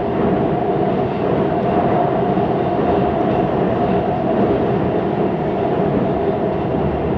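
Siemens Inspiro metro train running at speed, heard inside the carriage: a steady rolling noise from the wheels on the rails, with a constant mid-pitched tone running through it. This is the weird rolling noise of this train.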